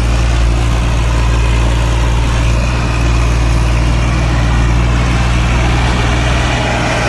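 Massey Ferguson 1035 tractor's three-cylinder diesel engine running steadily at a constant speed, loud and without revving.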